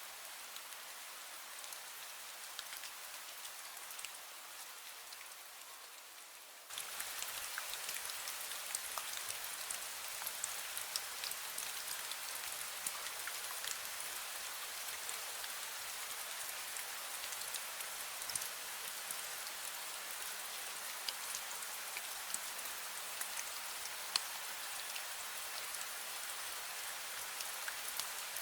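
Light rain falling steadily, a fine patter of individual drops landing on surfaces. About seven seconds in, the rain suddenly becomes louder and then holds steady.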